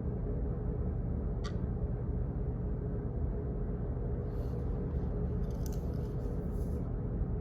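Office background noise: a steady low hum and rumble, with a single sharp click about a second and a half in and faint light clattering in the second half.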